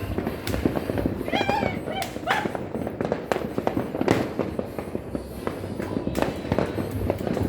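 New Year fireworks and firecrackers going off all around in a dense, continuous crackle of pops and bangs, with brief shouting voices about one and a half to two and a half seconds in.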